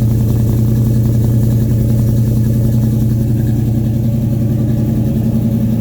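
Carbureted 350 small-block V8 in a 1941 Chevy pickup idling steadily, warming up after a cold start.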